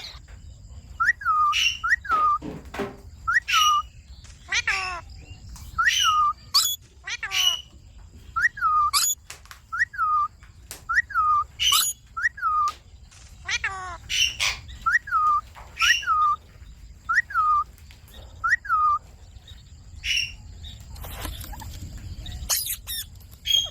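Indian ringneck parakeet calling over and over: short falling chirps about once a second, with sharper high-pitched calls among them, thinning out near the end.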